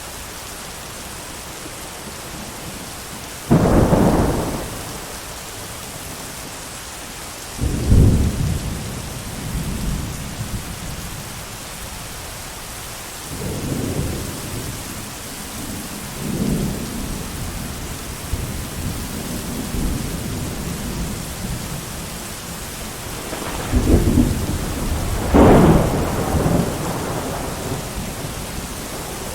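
Steady heavy rain with thunder: a sharp clap a few seconds in and another about eight seconds in, softer rumbles in the middle, and two loud claps close together near the end, each fading into a rolling rumble.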